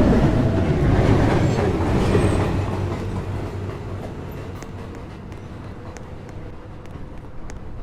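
Subway train running through the station, loud at first and then fading steadily after about three seconds as it pulls away, leaving a faint steady hum and a few light ticks.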